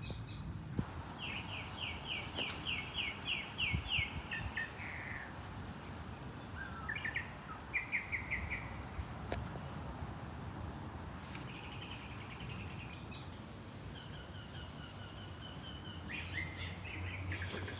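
Songbird calling outdoors in several runs of rapid chirps, about four a second, the first and longest about a second in, over a low steady background rumble.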